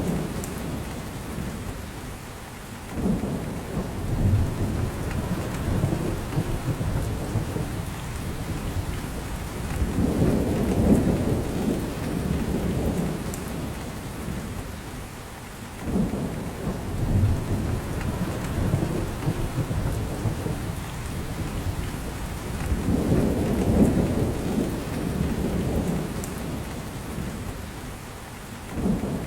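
Steady rain falling in a spruce forest, drops pattering off the branches, with a low rumble that swells and fades about every six or seven seconds.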